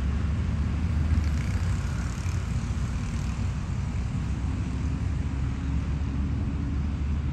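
Steady low rumble of urban background noise, like distant traffic or an aircraft overhead, with a faint hiss above it.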